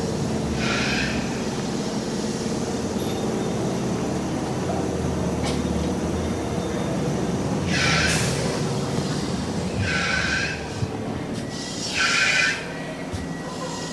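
Steady low rumble of a train at the station platform. Four short hisses come through it, one about a second in and three more close together near the end.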